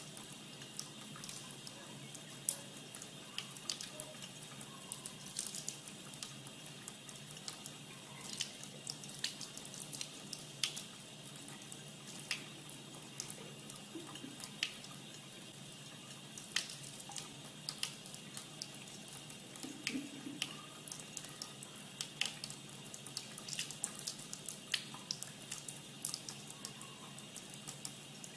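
Faint running water from a tap, with many small irregular drips and ticks.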